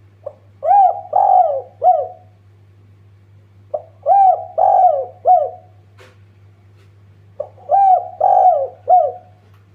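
Spotted dove cooing: three phrases a few seconds apart, each a short note followed by three coos, the middle coo drawn out. A steady low hum runs underneath.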